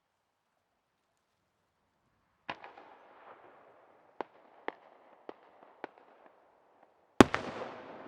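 Aerial fireworks shells bursting. Quiet at first, then a bang about two and a half seconds in, a run of four or five separate sharp cracks, and near the end a much louder boom that trails off in a long rumbling echo.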